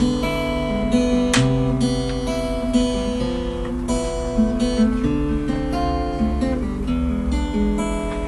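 Acoustic guitar playing chords in an instrumental passage of a song, the chords changing about once a second.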